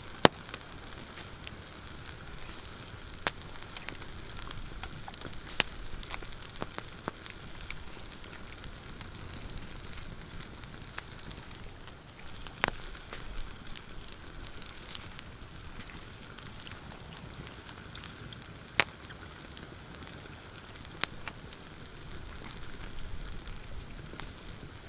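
Campfire crackling steadily, with sharp pops now and then; the loudest comes just after the start, and others about 3, 5.5, 12.5, 19 and 21 seconds in.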